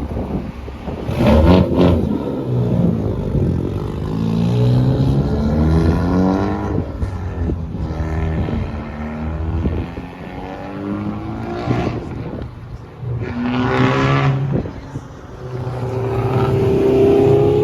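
Car engines accelerating hard one after another as cars pull away, each rising in pitch, with loud bursts about a second in and again near fourteen seconds.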